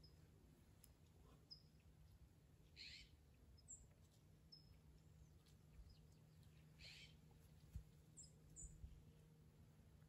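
Near silence: a few faint, short, high bird chirps over a low steady hum, with two soft hisses.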